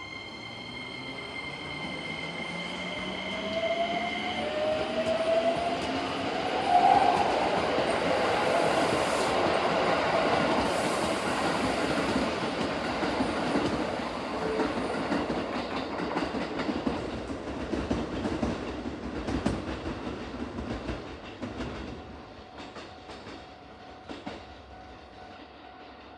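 A Keikyu electric train passes close by, wheels clattering over the rail joints. A rising motor whine is heard as it approaches. The sound builds, is loudest in the middle, and fades away over the last few seconds.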